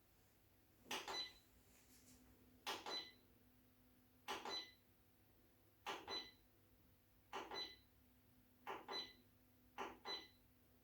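Electric fireplace control panel giving a short electronic beep with a click at each button press, repeated about every one and a half seconds, seven or eight times, as the settings are stepped through.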